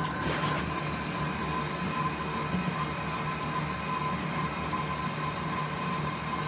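Steady hum of a running machine, with a thin constant whine and a few light clicks in the first half second.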